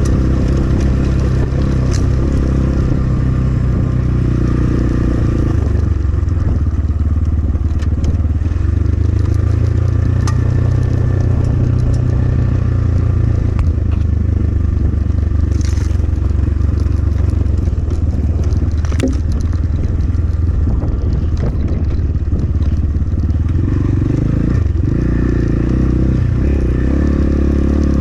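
Templar X 250 dirt bike engine running steadily under load while riding a rough trail, with scattered clicks and scrapes from the tyres on rocks and gravel. Near the end the engine note rises as the rider opens the throttle.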